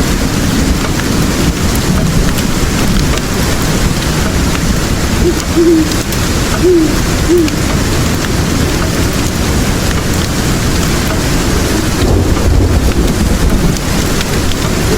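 Steady heavy rain with a few short owl hoots in two groups about five to seven seconds in, and a low rumble of thunder swelling about twelve seconds in. Faint crackles of a fire sound now and then.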